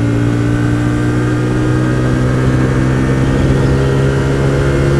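Hyosung GT125R's 125 cc V-twin engine running at a steady cruising speed, its note holding nearly level throughout, over low rumble from the ride.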